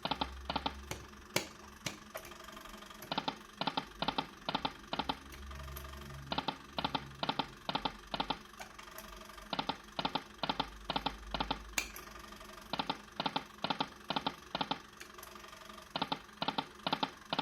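The electromechanical hard meters inside a poker machine clicking away rapidly, counting up: a long run of sharp clicks, roughly three a second in uneven runs, over a faint low hum from the machine.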